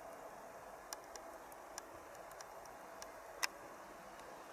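EN63A electric multiple unit approaching slowly, heard faintly as a steady low hiss, with a few sharp irregular ticks, the loudest about three and a half seconds in.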